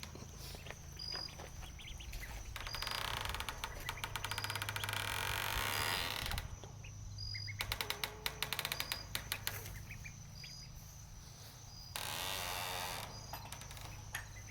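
Outdoor ambience of insects and birds: a short high chirp repeating about once a second, with two long stretches of rapid clicking chirps, over a steady low hum.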